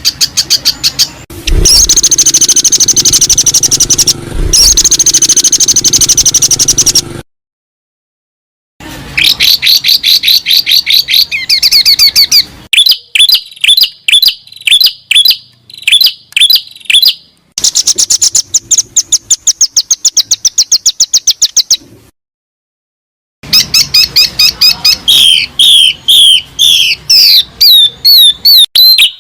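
Recorded songbird calls played loudly: rapid series of sharp, high chirps and trills in several patterns, spliced together, with two abrupt cuts to dead silence, the first about seven seconds in. This is a birdsong tutoring ('masteran') track meant for a captive bird to learn from.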